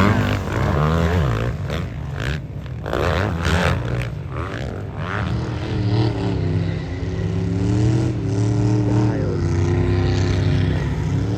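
Motocross bike engines revving hard on the track, their pitch repeatedly climbing and dropping with the throttle and gear changes.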